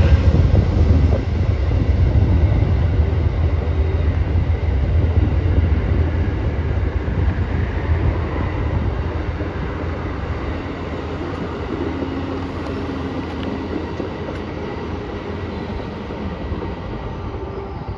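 Amtrak passenger train rumbling steadily as it pulls away, the sound slowly fading as it recedes.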